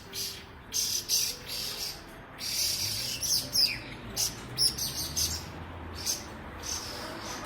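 Laughingthrush giving scratchy, chattering calls in repeated bursts, several in quick succession with short gaps between them.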